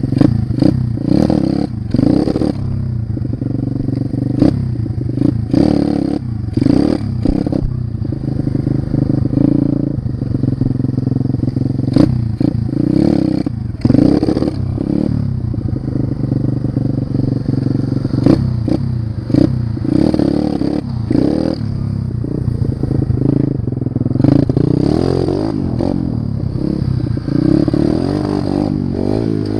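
Small pit bike engine running under throttle, with clattering knocks and rattles over it throughout. Its revs rise and fall several times near the end.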